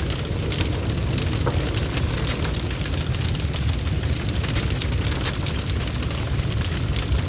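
Bonfire burning, with a steady low rumble under frequent sharp crackles and pops of burning wood.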